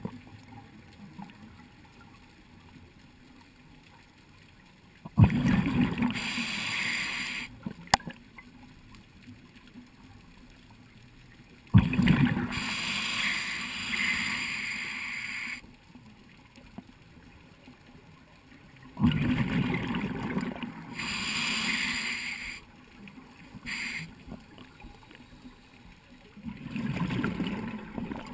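Scuba diver's regulator breathing heard underwater: four gurgling rushes of exhaled bubbles, each a few seconds long and about seven seconds apart, with a quieter hiss between them.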